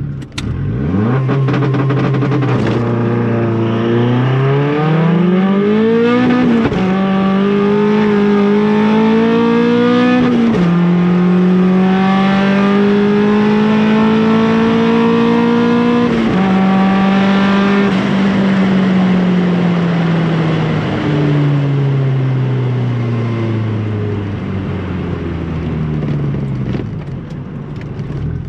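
Turbocharged 1.8 litre 20-valve four-cylinder of a Mk2 Golf on a full-throttle quarter-mile run: the engine note climbs through the gears, dropping sharply at gear changes about 7, 10 and 16 seconds in. In the last ten seconds the pitch falls steadily as the car slows after the finish.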